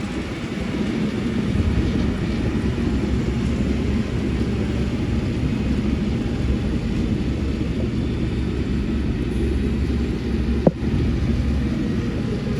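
Heavy construction machinery's diesel engine running with a steady low rumble, with one short knock about eleven seconds in.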